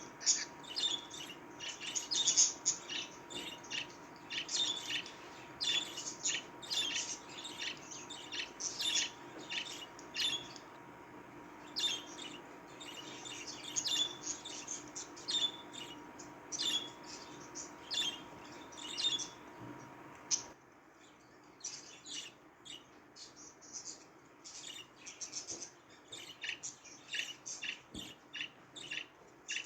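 Budgerigars chattering: a dense run of rapid high chirps and warbles. A faint steady hum lies under it and cuts off about two-thirds of the way through.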